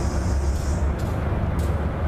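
Cars of a CSX intermodal freight train rolling across a steel elevated bridge: a steady low rumble with a few sharp clicks, and a high hiss that fades out about a second in.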